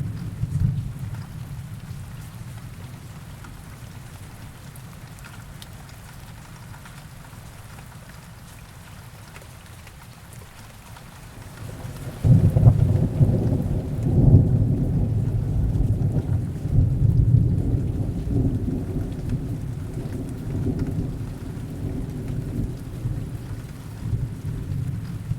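Heavy rain falling in a steady hiss, with thunder. A rumble dies away in the first seconds, then about halfway through a loud peal of thunder breaks in and rolls on in deep swells to the end.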